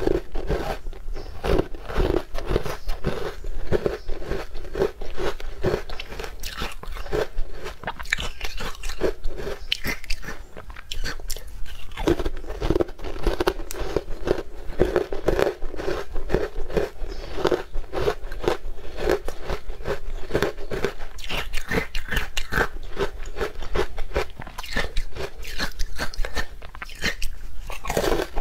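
Close-miked crunching and chewing of a crunchy green food, a dense run of crackly bites with no break.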